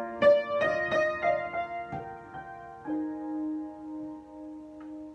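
Solo piano improvisation: a quick run of struck notes over the first three seconds, then a chord held and left ringing.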